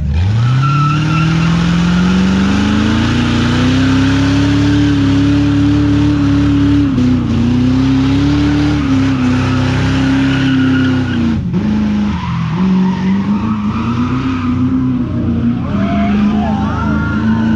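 Car engine revving up over about four seconds and held at high revs, wavering up and down, with tires screeching: a burnout.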